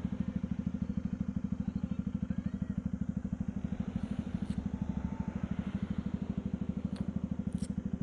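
Bajaj Pulsar 200NS single-cylinder engine running steadily through an aftermarket underbelly sports exhaust. The exhaust gives an even, rapid train of low pulses with no revving.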